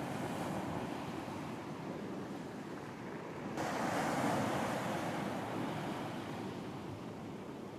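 Ocean waves washing onto a beach in a steady rush, with one wave breaking suddenly about halfway through and slowly fading back.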